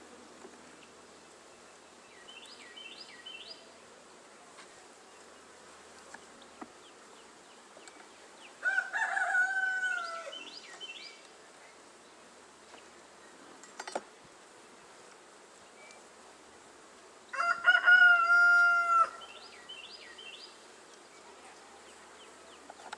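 A rooster crowing twice, about nine and seventeen seconds in, each crow a few broken notes and then a long held one. Under it runs the steady hum of honey bees around an open hive, with a few small bird chirps between the crows.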